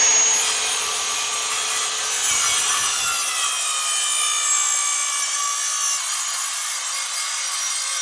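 Electric power saw cutting wood: its motor whine starts suddenly and rises, then sags slowly in pitch under load through the cut.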